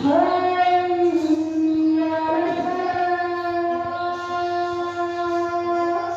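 Aseel rooster crowing: one long, drawn-out crow on a steady pitch with a slight break about two seconds in.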